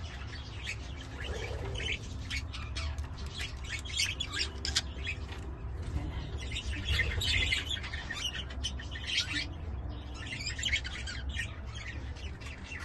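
Budgerigars chattering: a dense, continuous run of short chirps and warbles from several birds, over a steady low rumble.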